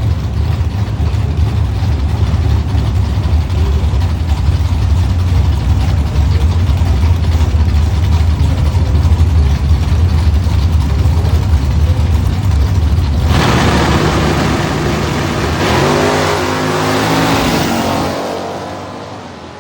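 A steady deep engine rumble, then about two-thirds of the way in a nostalgia drag car's engine comes in loud and accelerates hard, its pitch shifting in steps, before fading away near the end.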